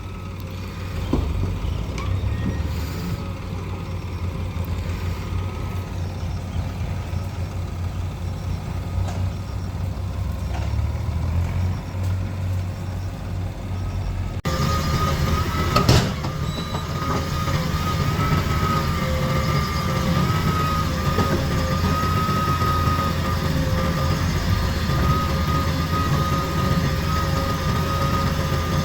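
Heavy diesel machinery running: the engines of a backhoe loader and a loaded tractor, a steady low rumble. About halfway the sound changes abruptly and a steady high whine joins the rumble, with a single sharp knock shortly after.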